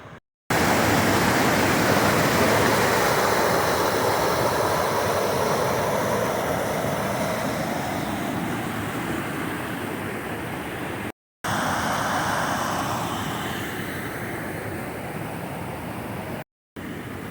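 Rushing creek water, a steady loud rush of white water that slowly fades. It is broken twice by sudden silent gaps.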